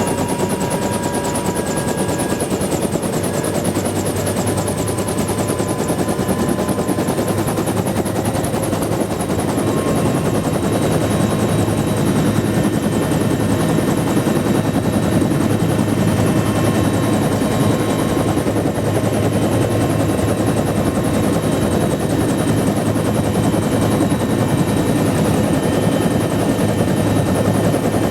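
UH-1 Huey helicopter's turbine and rotor running, heard from inside the cabin: a loud steady rotor noise with a thin turbine whine, growing louder about ten seconds in.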